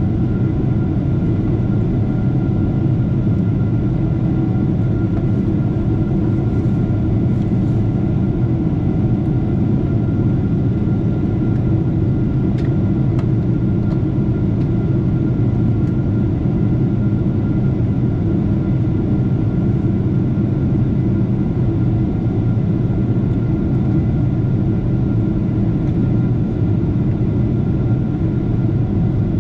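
Boeing 747-8 jet engines and airflow giving a steady, unchanging low rumble, with a faint steady whine above it.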